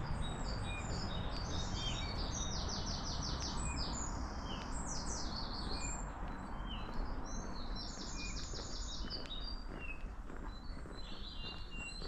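Songbirds chirping, with many short high calls and a few fast trills of rapidly repeated notes, over a steady low background of city noise.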